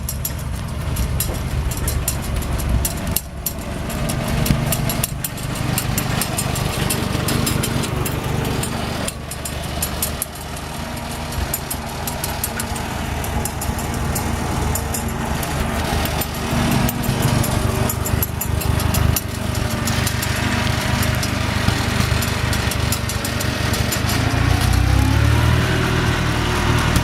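Engine of a T340 crawler loader-backhoe running under way, with a faint steady clatter; near the end the engine pitch dips and rises again as the throttle changes.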